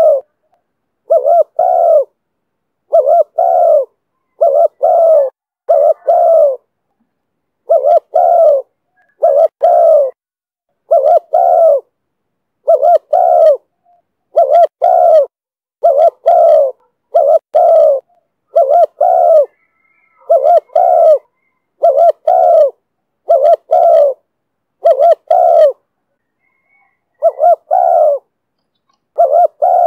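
Spotted dove cooing: short coos in close pairs, repeated at a steady pace of about one pair every second and a half, with a few slightly longer gaps.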